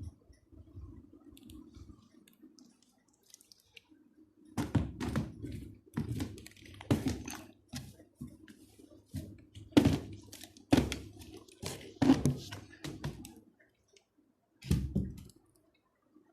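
A run of irregular knocks and thunks, about a dozen, of hard objects being handled and set down. They start a few seconds in and stop near the end after one last knock.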